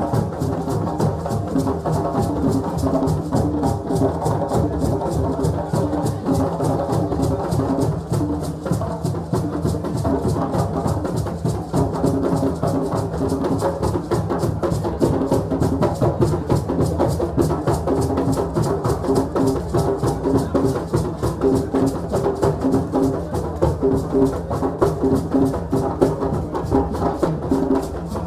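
Drumming at a West African celebration: several drums keeping up a fast, steady rhythm, with a continuous pitched layer of sound beneath the strokes.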